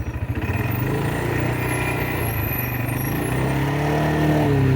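ATV engine ticking over at a pulsing idle, then picking up revs about half a second in to a steady run. Near the end its pitch rises and falls again.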